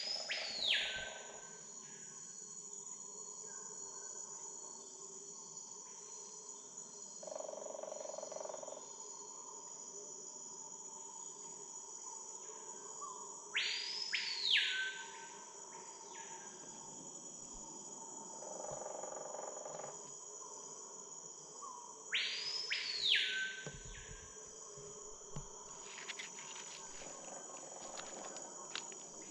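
Rainforest insect chorus: a steady high-pitched drone. Three times a louder call cuts in, each about a second long, jumping to a high pitch, holding, then dropping away.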